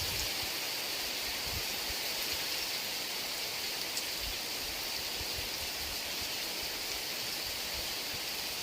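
Heavy rain falling as a steady, dense hiss, with faint low gusts of wind underneath.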